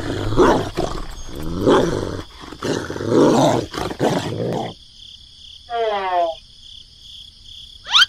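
A dog barking and growling, several harsh barks in the first four to five seconds. Then a short pitched sound and a quick rising whistle near the end.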